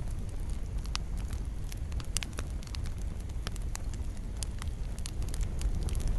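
Wood fire burning in a fireplace: a steady low rumble of flames with irregular sharp pops and crackles scattered through, several of them a second.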